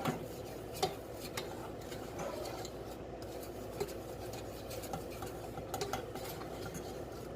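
Utensils stirring melting butter in pots on the stove, scraping steadily with irregular light clinks against the pot.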